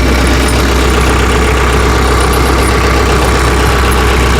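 Tractor engine idling steadily, a deep even hum.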